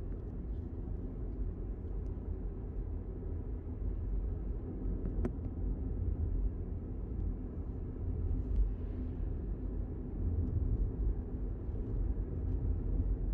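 Steady low rumbling noise with a single sharp click about five seconds in.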